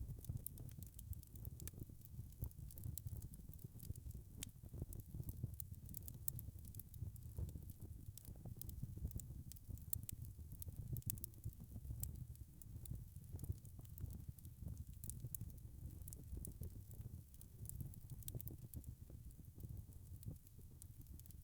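Wood fire burning in a fireplace: a steady low rumble of flames with many sharp, irregular crackles and pops from the logs.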